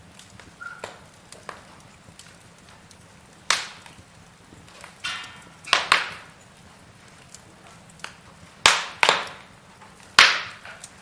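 Wood fire of burning logs crackling in a fireplace, with irregular sharp pops and snaps, the loudest about six of them in the second half, and a brief hiss about five seconds in.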